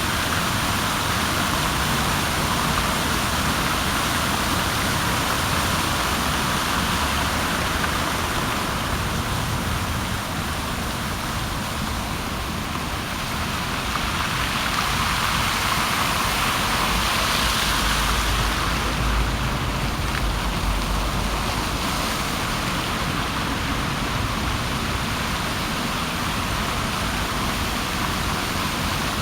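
Water fountain jets splashing and rushing steadily, swelling slightly about halfway through.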